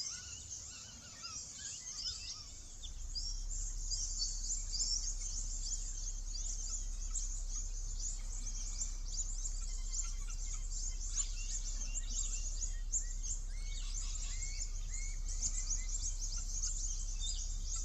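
Many small birds chirping and trilling together in quick overlapping calls, over a low steady rumble that grows louder about three seconds in.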